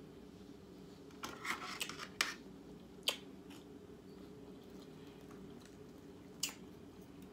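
Knife and fork scraping and clicking on a plate while cutting steak: a short run of scrapes about a second in, then single clicks near the middle and toward the end, over a steady low hum.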